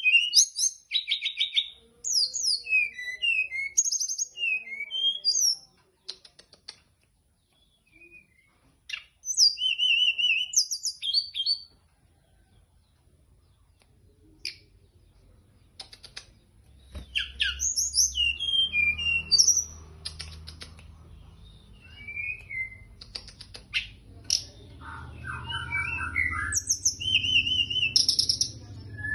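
A teledekan gunung songbird singing in quick bursts of varied chirps, trills and whistled notes, broken by a few seconds of quiet twice. A low steady hum runs under the song in the second half.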